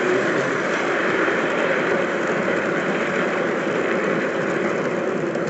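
Model train running past on the layout, a steady rumble of wheels on track and motor noise.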